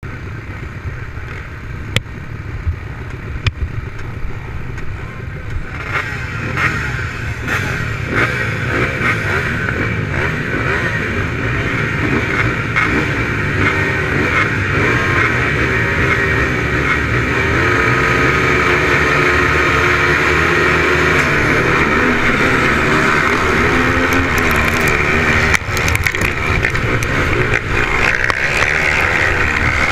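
Racing motorcycle engines revving and accelerating. The sound grows louder over the first half, then stays loud, with the engine pitch rising and falling.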